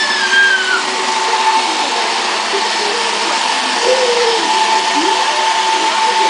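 Roomba robot vacuum running: a steady whirring hum with a constant high motor tone.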